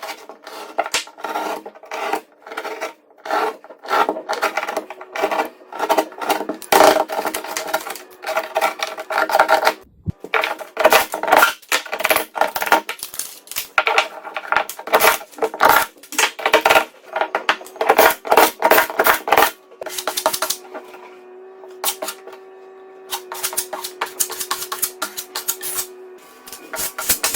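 Hand tools scraping and rubbing on a drywall patch in repeated irregular strokes, about one or two a second, over quiet background music. Near the end the strokes mostly stop and a held musical tone carries on alone.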